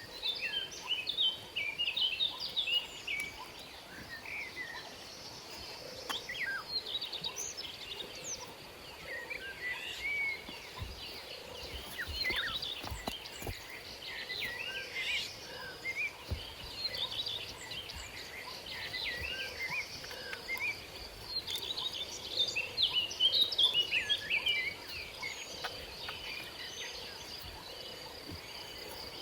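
Birds chirping and calling in quick, repeated clusters of short notes, over a steady high-pitched insect drone.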